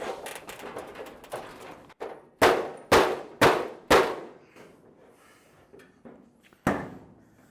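Hand smacking the sheet-metal trunk lid of a 1928 Ford Model A to spring it into shape: lighter knocks and rattles at first, then four hard clanging slaps in quick succession about half a second apart, and one more near the end, each ringing briefly in the thin panel.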